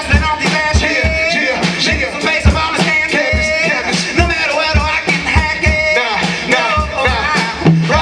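Hip hop music with a heavy kick-drum beat and a voice singing or chanting over it.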